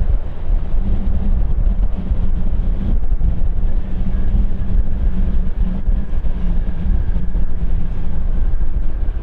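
Jet airliner engines making a loud, steady low rumble. A faint high whine joins in about halfway through.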